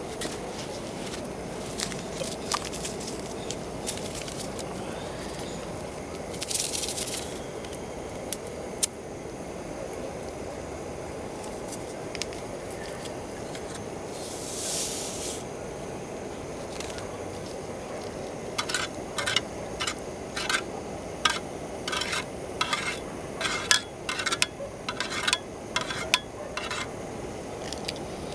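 A gas camping burner runs steadily under a frying pan of pancake batter, with two short hissing bursts and a few small knocks. In the second half a metal spoon clinks quickly against a mug, about two clinks a second, as sugar is stirred into tea.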